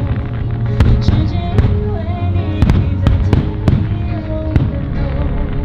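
Aerial fireworks bursting in quick succession, about two sharp bangs a second, over music playing throughout.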